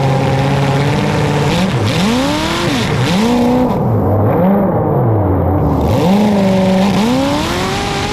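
Car engine revving up and easing off again and again, its pitch swinging up and down about once a second and climbing near the end.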